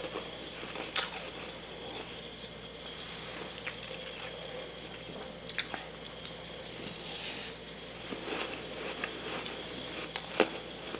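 Someone chewing soft freezer frost close to the microphone: scattered squishy crunches every second or two over a steady faint hum.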